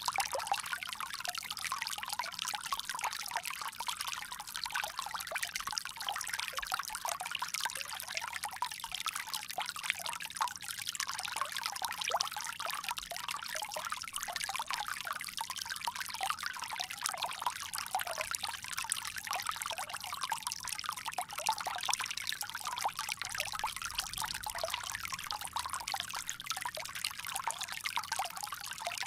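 Water pouring steadily from a bamboo spout, a continuous splashing trickle with most of its sound in the higher, hissing range.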